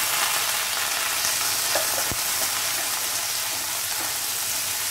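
Finely chopped shallots sizzling in hot sesame oil in a frying pan, stirred with a wooden spatula: a steady frying hiss with one knock about two seconds in.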